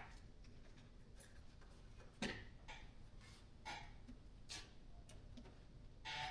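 A few faint, scattered clicks and light knocks of hand work on the upturned Chevy 350 small-block, with near silence between them.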